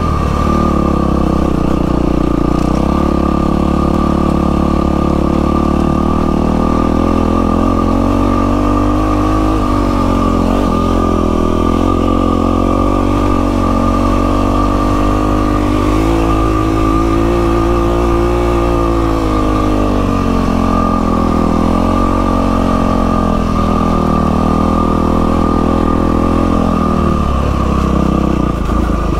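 Yamaha WR450F single-cylinder four-stroke dirt bike engine running under way, its pitch rising and falling as the throttle is worked, with a brief drop near the end. A steady high whine sits under the engine sound.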